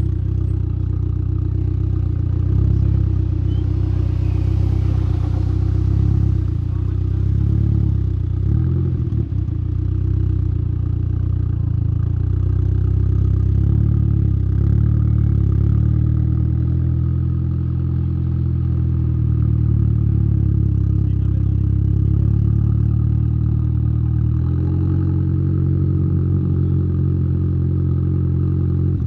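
Tuned Saab 9-3's turbocharged 2.0-litre B204 four-cylinder running steadily, heard close at the exhaust through a 3-inch downpipe and Simons muffler, a deep even drone whose tone shifts slightly near the end.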